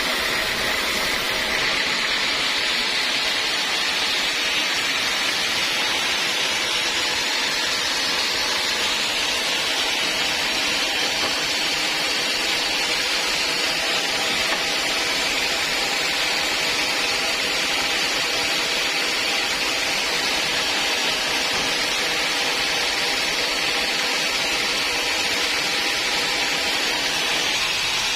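Sawmill machinery running steadily, a continuous high rushing noise with a faint whine, typical of a saw working through a teak log.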